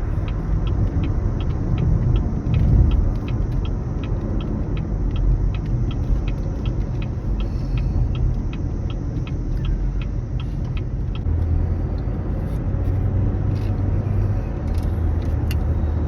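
Steady low rumble of a car's cabin. A faint, rapid ticking of about three a second runs through the first ten seconds or so.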